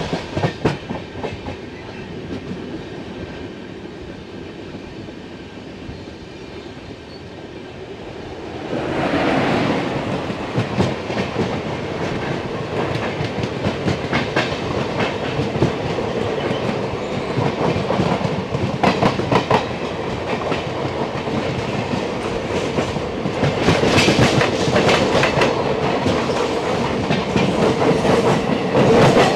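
Fast-moving Indian Railways express train heard from an open coach door: steady wheel and track noise with clicks of the wheels over rail joints. It grows louder about nine seconds in, with a steady hum on top, as a second train runs alongside on the adjacent track, and louder again near the end.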